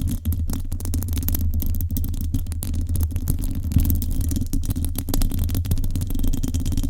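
A microphone being scratched directly by fingers, a continuous dense run of rapid rough scratching strokes with a heavy low rumble from contact with the mic.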